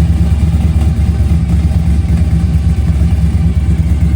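A car engine idling loudly at close range: a deep, steady exhaust rumble with a fast, uneven flutter.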